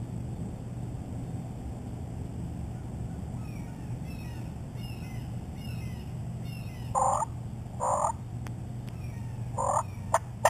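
Turkey calls in the woods: three loud, falling-pitch calls a second or so apart, then two short sharp notes near the end. Small songbirds chirp faintly behind them over a steady low background hum.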